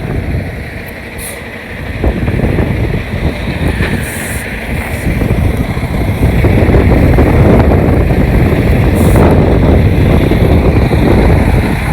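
Semi truck's diesel engine running as the tractor-trailer backs up, its rumble growing louder about two seconds in and again about six seconds in, with a few short hisses.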